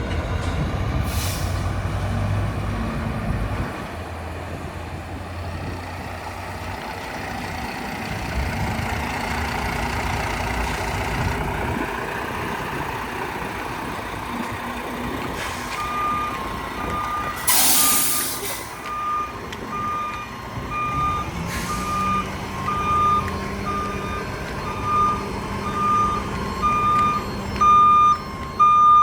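Mack Granite roll-off truck's diesel engine running, with a short air-brake hiss near the start and a loud one about halfway through. From just after halfway its reversing alarm beeps steadily and evenly to the end.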